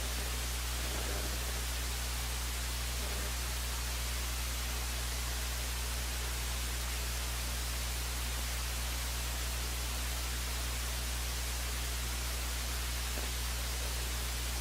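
Steady electronic hiss with a low, constant hum underneath, unchanging throughout: the empty audio feed of a broadcast break, with no game sound or commentary.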